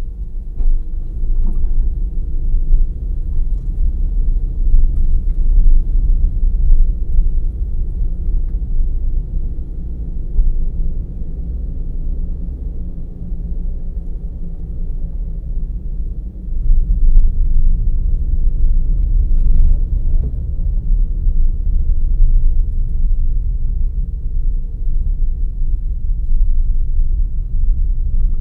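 Car driving: steady low road and engine rumble, with a faint engine note that wavers in pitch with speed and a few light knocks. It grows louder a little past halfway.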